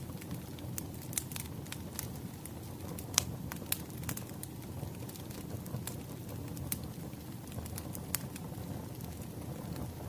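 Wood fire crackling: irregular sharp pops and snaps over a low steady rumble of burning logs, with the loudest pop a little over three seconds in.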